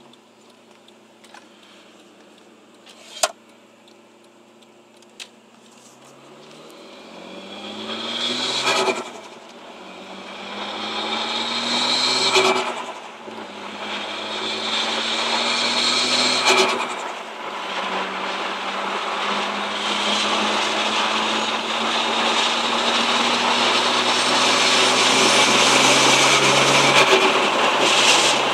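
Nissan Skyline R34's turbocharged straight-six, heard from inside the cabin, accelerating hard through the gears. The revs climb and drop sharply three times at the gear changes, with turbo flutter on each lift-off, then a long steady pull in a higher gear. The engine is quiet at the start, with a couple of small clicks.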